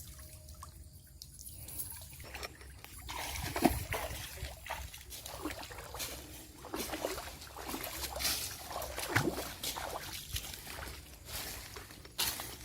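Shallow river water sloshing and splashing in irregular bursts, starting about three seconds in, with trickling between them.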